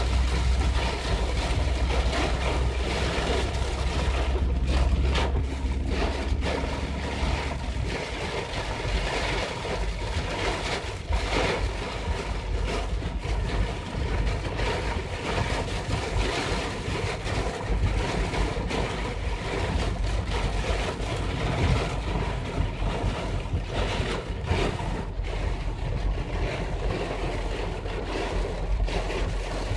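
Torrential cloudburst rain drumming on a car's roof and windscreen, heard from inside the moving car. A low road rumble runs under it and drops away about eight seconds in.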